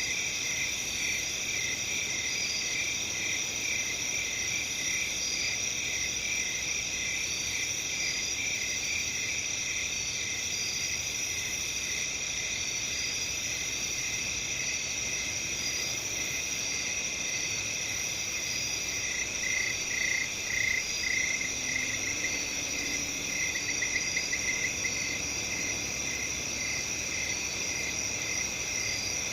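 A chorus of crickets chirping steadily at several pitches at once. About twenty seconds in, one nearer cricket chirps louder in short runs.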